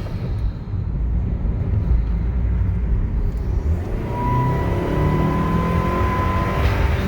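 Turbocharged 1.8 TSI four-cylinder of a 2015 Jetta pulling through an ECS cold air intake, the engine note rising. A steady whistle comes in about four seconds in and cuts off near the end with a short whoosh.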